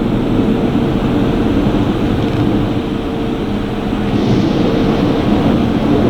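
High-pressure rinse jets of a touchless automatic car wash spraying a pickup truck: a loud, steady rush of water with a constant hum underneath.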